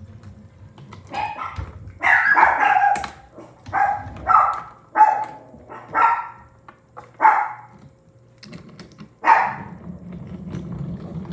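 A dog barking repeatedly, about nine loud barks at uneven spacing with a pause before the last, over a faint steady low hum.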